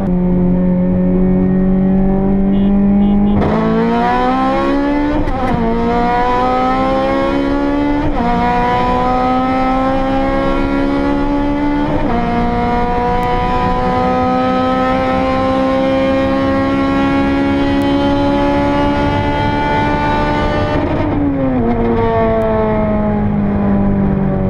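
Built Honda Civic Type R FN2 K20Z4 four-cylinder with Toda 4-2-1 headers, heard from inside the cabin: it cruises at a steady note, then about three seconds in goes to full throttle and climbs through the gears, each upshift a short dip, about 5, 8 and 12 seconds in, followed by a long rising pull in a higher gear. About 21 seconds in the driver lifts off and the revs fall.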